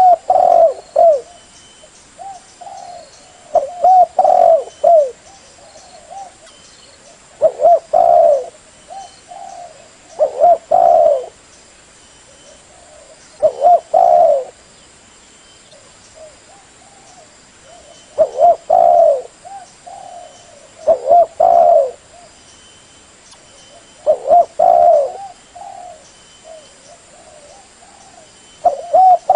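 Spotted dove cooing: a phrase of several low, hoarse coos repeated about every three seconds, nine phrases in all. Faint high chirps of other small birds sound behind it.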